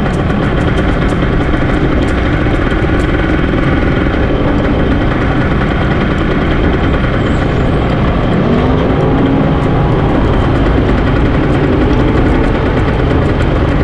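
A vehicle engine running steadily under a constant wash of road and wind noise while riding along. A second engine note rises and falls about eight to ten seconds in.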